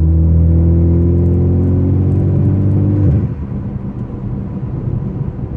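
Straight-piped Ford Focus ST 2.0-litre turbo four-cylinder, with muffler and resonator deleted, heard from inside the cabin: a loud, steady exhaust drone under throttle that, about three seconds in, drops away to a lower, rougher rumble as the engine comes off load.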